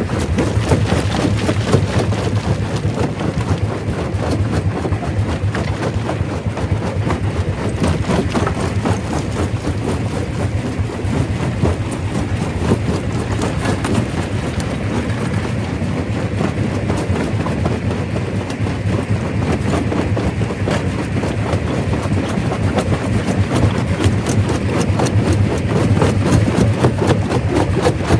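Quarry primary rock crusher running, a steady low drone under a dense, continuous clatter of rock being broken and tumbling through the machine.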